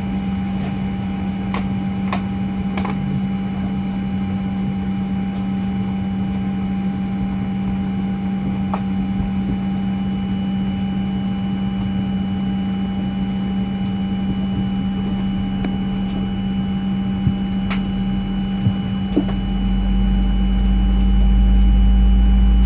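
Steady droning hum inside a Boeing 737-900's cabin, holding a few steady tones, with a few light clicks. Near the end a deep low rumble comes in and the sound grows louder.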